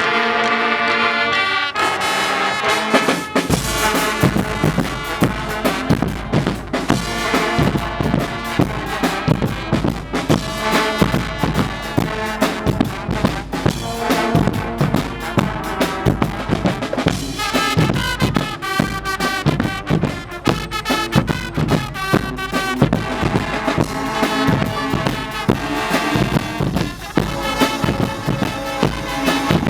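Guggenmusik carnival band playing: brass (trumpets and trombones) over a steady drum beat. It opens on a held brass chord, and the drums come in about three seconds in.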